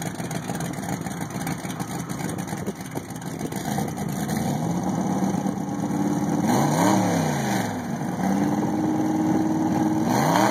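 Jet boat engine running rough at idle, then revved twice, the pitch climbing and dropping back each time.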